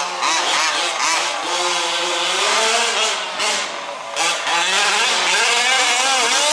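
Several 1/5th scale petrol RC off-road trucks racing, their small two-stroke engines revving up and down, with a number of overlapping engine notes rising and falling at once.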